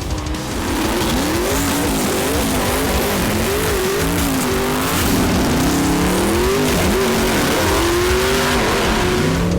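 Race car engine revving up and down over a loud rushing, squealing noise of spinning tyres, with the pitch of the engine rising and falling repeatedly.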